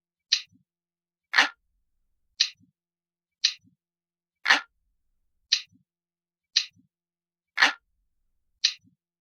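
Analog clock ticking about once a second in a steady looped pattern: one louder, fuller tick followed by two lighter ones.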